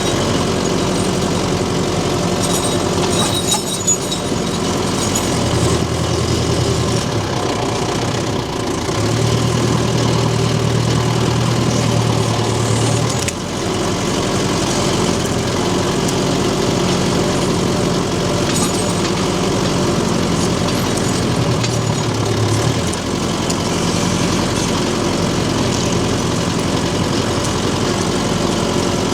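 Tractor engine running steadily, its note shifting and strengthening for a few seconds at a time as it works under changing load.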